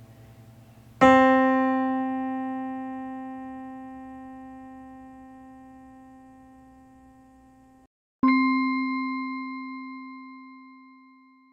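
Two single keyboard notes struck at the same pitch, each left to ring out with a long, smooth decay. The first is rich in overtones and is cut off suddenly after about seven seconds. The second follows at once with a purer, chime-like tone and fades away.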